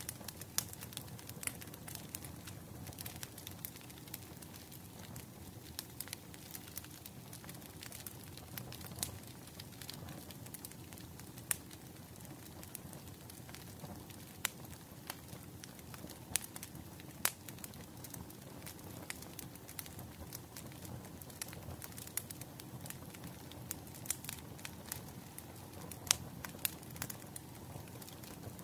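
Bonfire crackling: irregular sharp pops and snaps over a steady low rumble of the burning wood.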